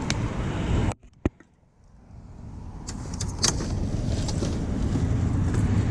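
Outdoor background noise: a steady low rumble with scattered sharp clicks. About a second in it cuts out abruptly to near silence, then fades back up over the next two seconds.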